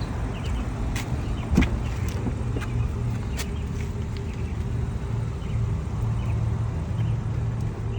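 A steady low vehicle hum, with a few sharp clicks and a louder knock about one and a half seconds in, as the door of a 2020 BMW X5 is opened to get at the cabin.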